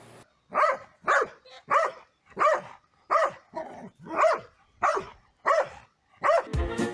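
A dog barking repeatedly, about nine barks in a steady run, roughly one every two-thirds of a second.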